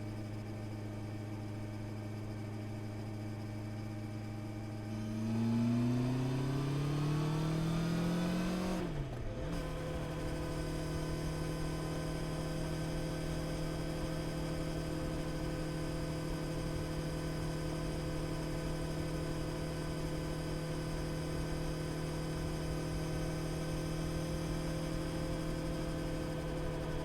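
Honda CB650R's inline-four engine running at steady revs, then accelerating with a rising pitch for about four seconds, dropping sharply at a quick upshift about nine seconds in, and settling into steady, higher-pitched running.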